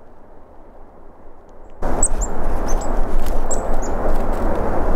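Outdoor winter-woods ambience: a faint, muffled hiss cuts about two seconds in to a loud, steady rushing noise, over which small birds give several short, high, falling chirps.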